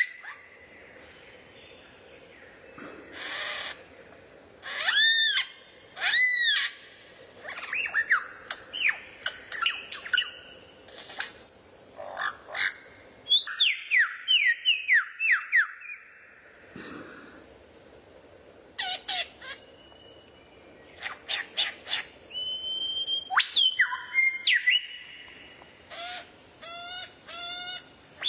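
A songbird singing a varied song of separate phrases with short pauses between them: arched whistled notes, runs of quick falling notes, rapid chips and short buzzy trills.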